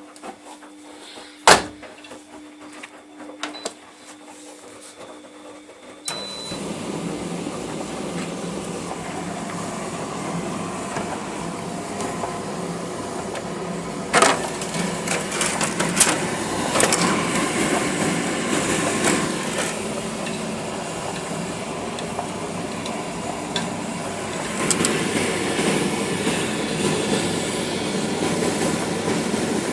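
A laundry machine running: first a quieter steady hum with one sharp click, then about six seconds in a sudden switch to a loud, continuous churning rumble with scattered clicks and knocks as the drum turns.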